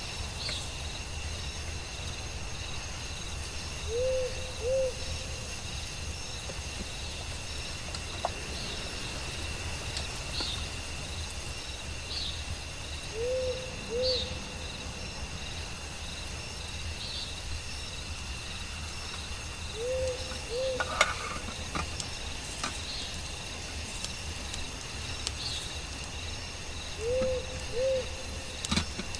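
Forest night ambience: a bird gives a low two-note hoot about every seven seconds, four times, over a steady high drone of insects, with short repeated chirps and one sharp click about two-thirds of the way through.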